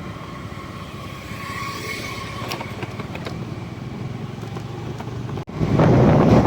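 Motor vehicle engine running with road noise during a ride. About five and a half seconds in it cuts off sharply to a louder rush of wind on the microphone.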